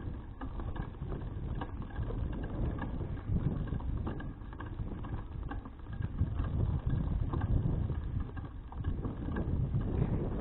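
Wind rumbling on an action camera's microphone while riding a bicycle, with faint irregular ticks on top.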